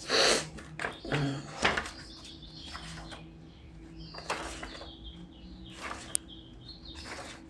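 Short bursts of paper rustling and sliding, as of an oracle-card guidebook's pages being leafed through, over a faint steady hum.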